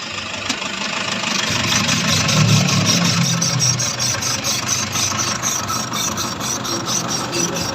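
Toyota engine running in reverse gear with the wheels off the ground, with a rhythmic high-pitched squeak from the turning propeller shaft, several times a second. A squeak like this on reversing is usually a worn cross joint (universal joint) on the propeller shaft.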